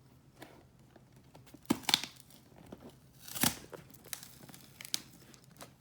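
Packaging crinkling and rustling as it is handled or pawed at, with sharper crackles about two seconds in and again about three and a half seconds in.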